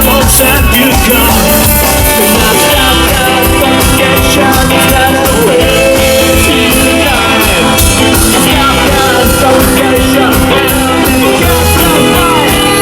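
Ska band playing live on an amplified stage: drums, bass and melodic instruments at a steady, loud level.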